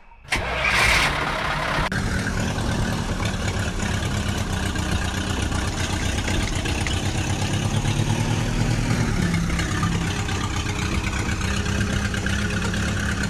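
A motor running steadily with a fast, even chugging beat, after a short hiss in the first two seconds.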